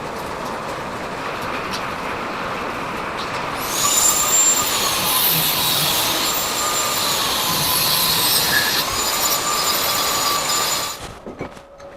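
A machine running: a loud, steady hiss with a high whine that wavers in pitch. It gets louder about four seconds in and stops suddenly near eleven seconds.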